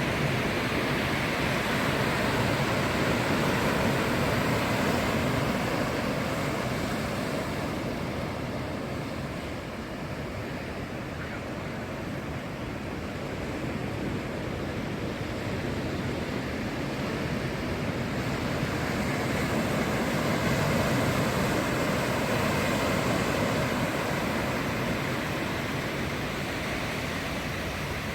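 Ocean surf breaking and washing up the beach: a steady rushing wash that eases about ten seconds in and swells again around twenty seconds.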